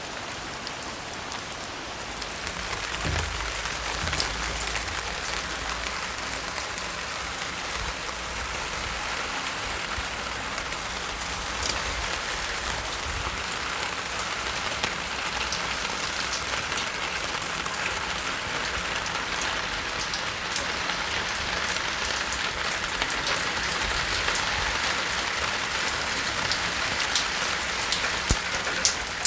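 Steady rain falling, with many separate drops ticking on surfaces through the even hiss. It grows a little louder about two seconds in.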